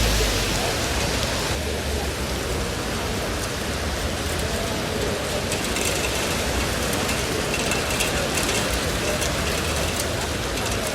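Heavy rain falling steadily, with a denser scatter of sharp drop ticks in the second half.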